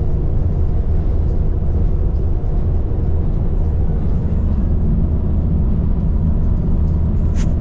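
A vehicle driving, with a steady low road and engine rumble. A brief click sounds near the end.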